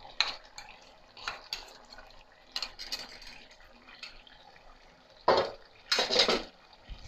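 Tripe pieces frying in a pan of hot oil: a low sizzle broken by scattered sharp pops and crackles, with two louder bursts near the end.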